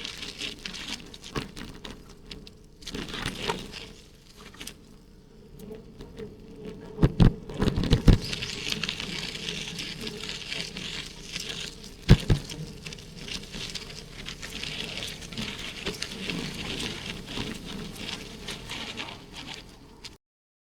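Riding noise picked up by an action camera on a moving bicycle: a steady hiss of wind and rolling with irregular rattling, and a few heavy low thumps about seven, eight and twelve seconds in. It cuts off abruptly just before the end.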